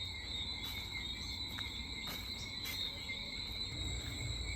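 Night chorus of tiny whistling frogs: many high, steady calls at several pitches at once, over a low rumble that grows louder near the end.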